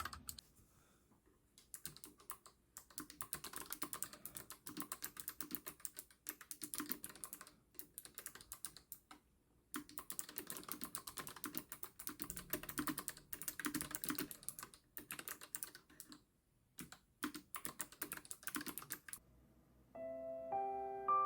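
Typing on a NuPhy Air75 low-profile mechanical keyboard: fast runs of key clicks broken by short pauses. Piano music comes in near the end.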